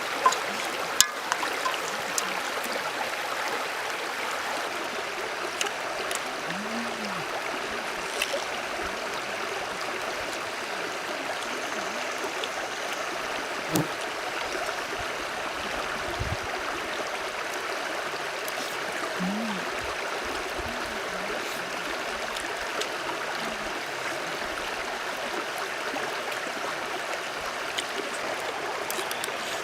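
Steady rushing and gurgling of a small stream's running water, with a few faint clicks.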